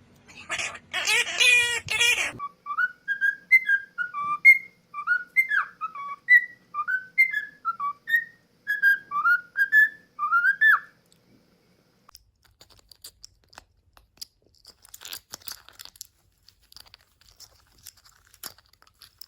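A parrot whistling a tune of short gliding notes, about two a second, for roughly eight seconds, after a loud voice-like call at the start. Faint crunching clicks follow, like the bird chewing.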